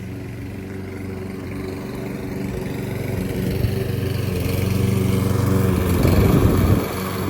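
Lawn mower engine running steadily, growing louder over the first few seconds, with a rougher patch about six seconds in.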